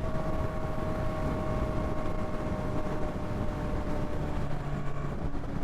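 Yamaha MT-09 motorcycle cruising at a steady speed. A steady engine note drifts slowly lower in pitch over a dense low rumble.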